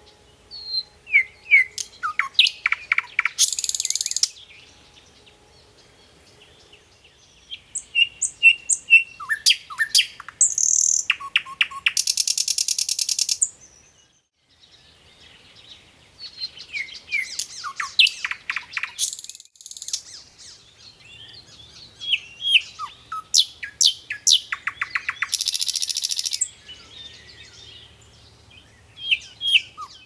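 Songbird singing in repeated phrases of chirps and quick sweeping whistles, each phrase ending in a fast, high, buzzy trill, with quieter gaps between the phrases.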